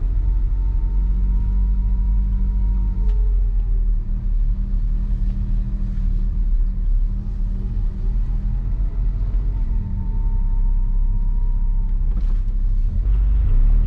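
Honda S660's small turbocharged three-cylinder engine and road noise while driving, a steady low drone with held tones that shift slightly in pitch a few seconds in and again later.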